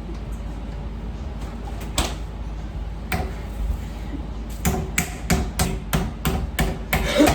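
Chicken breasts being pounded flat: two single blows, then from about four and a half seconds in a steady run of blows, about three a second.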